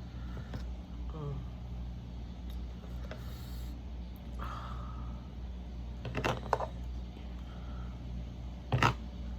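A person eating a taco, with a few short crunchy bites about six seconds in and one more near the end, over a steady low hum.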